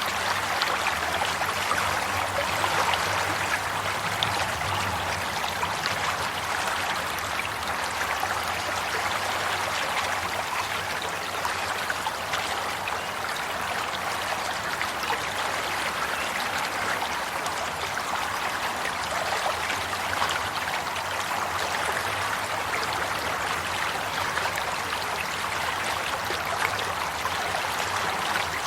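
Steady running water, an even babbling and trickling that keeps on without a break.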